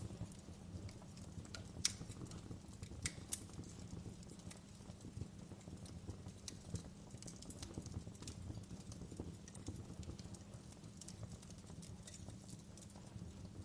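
Wood fire burning in a fireplace: irregular crackles and pops over a low steady rumble of the flames, with a sharper pop about two seconds in.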